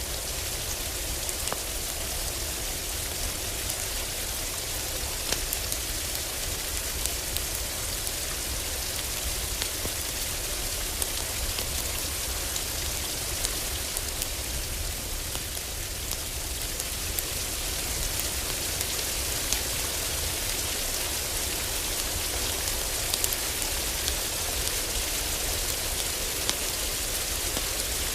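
Heavy rain falling on a roof as a steady hiss, with scattered sharp pops of a crackling wood fire.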